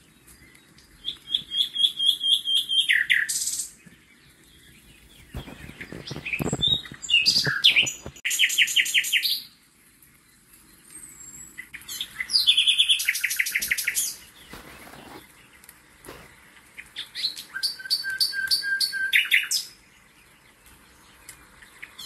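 Songbird singing: short trilled phrases of rapid high notes, repeated every few seconds. A lower rush of noise comes between the phrases for a few seconds partway through.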